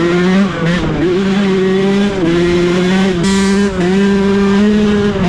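Dirt bike engine running under load as it is ridden, its pitch dropping and climbing again every second or so as the throttle is eased and reopened.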